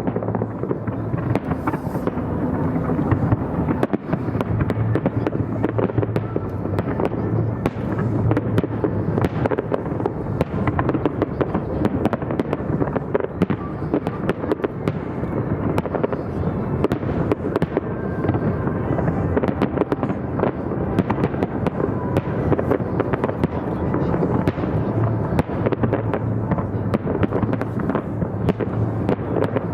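Fireworks display going off in rapid succession: many sharp bangs and crackles with a continuous rumble from the bursts, heard across the river, with music faintly underneath.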